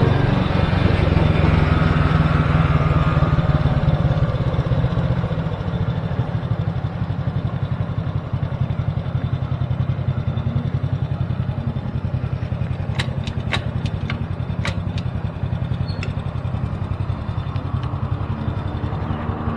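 Motorcycle engine running, louder at first and settling to a lower, steady note after about five seconds. A handful of sharp clicks come about two-thirds of the way through.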